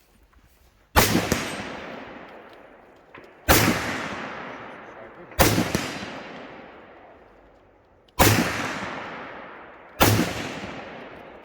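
Five rifle shots fired one at a time, two to three seconds apart, each sharp crack followed by a long echoing tail that fades over about two seconds.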